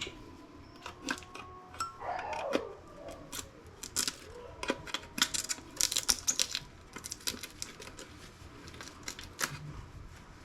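Thin steel shield covers being worked loose from a laptop motherboard: a quick run of small, sharp metal clicks and clinks, some with a brief ring.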